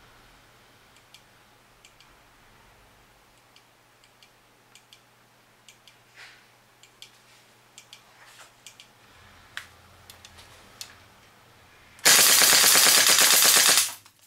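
Light clicks and handling sounds, then about twelve seconds in a loud full-auto burst of just under two seconds from a WE AK-74 gas blowback airsoft rifle fed by an air compressor and fitted with an RA-Tech CNC steel part that raises its rate of fire.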